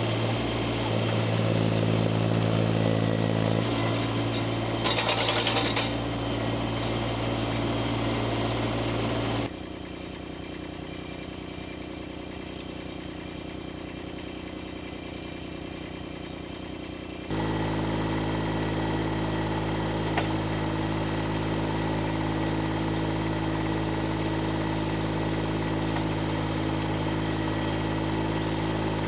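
An engine running steadily at an even speed, with two abrupt cuts that leave a quieter middle stretch and a brief louder rattle about five seconds in.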